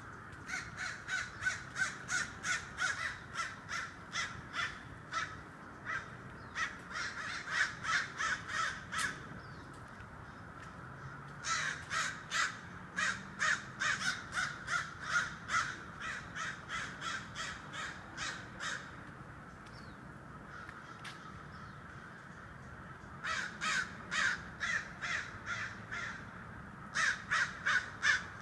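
Birds giving harsh, rapid calls, about three a second, in bouts several seconds long separated by short pauses.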